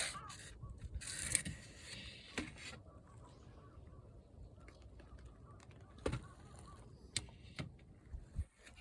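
A few scattered light knocks and clicks over a low background, with a hissing noise in the first few seconds.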